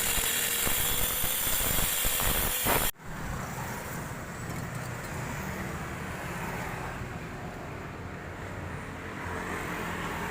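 A power tool running loudly with a steady whine, cutting off abruptly about three seconds in. After that comes a quieter, steady background rumble like distant road traffic.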